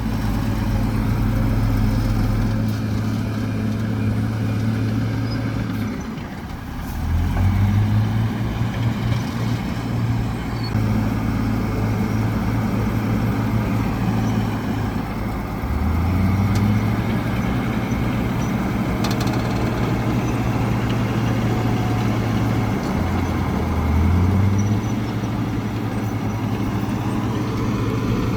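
Heavy diesel engine of earthmoving machinery running under load, its note rising as it revs up about a quarter of the way in, again around the middle, and once more near the end.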